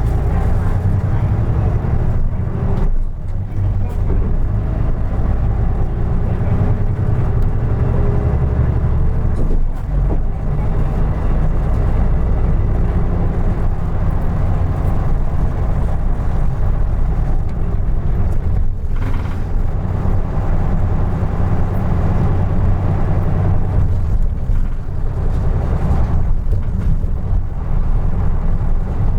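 Isuzu Erga Mio KK-LR233J1 city bus engine running under way, a steady low drone with brief dips in level about 3, 10 and 19 seconds in.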